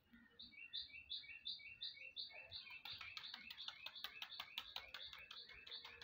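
Small birds chirping: a regular series of high two-note chirps, about three a second. About two seconds in it gives way to a faster, denser run of chirps.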